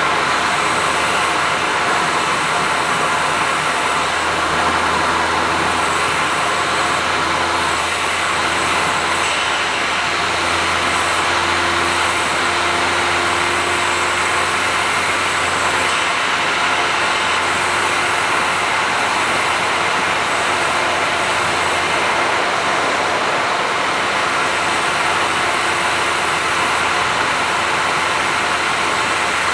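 A Honda S660's turbocharged three-cylinder engine and HKS aftermarket exhaust run at a steady cruise, with a constant drone mixed with tyre and road noise.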